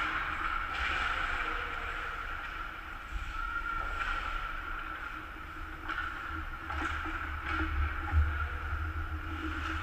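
Ice hockey rink ambience during a game: a steady hum with a low rumble underneath, and a few sharp clicks, the loudest near the end.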